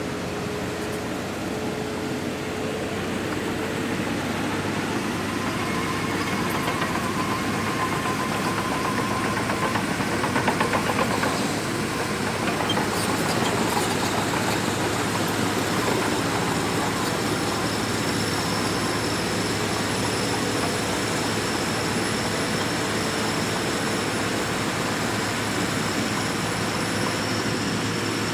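Shantui DH17C2 bulldozer working: its diesel engine runs steadily under load amid a dense mechanical clatter. The noise swells briefly about a third of the way in, and a thin high whine comes in partway through.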